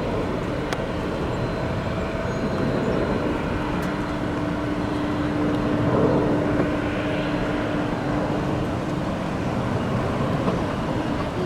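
Steady vehicle rumble with a faint hum running through it, swelling slightly about six seconds in.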